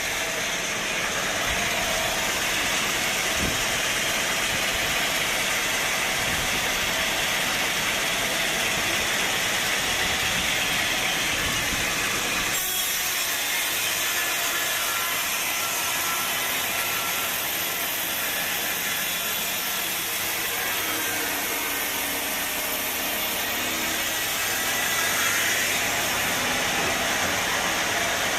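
Sawmill saw cutting through a log, a steady loud sawing noise with the machine running under it; about halfway through the sound changes abruptly, losing its low rumble and turning brighter.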